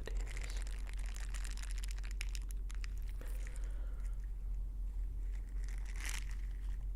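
Ear pick scraping close to the microphone: a dense run of crackly scratches for the first three seconds, then a softer swishing stroke about six seconds in, over a steady low hum.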